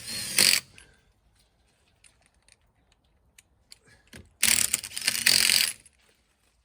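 Impact wrench spinning wheel nuts, in two rattling bursts: a short one at the start and a longer one of about a second and a half near the end, with faint clicks between.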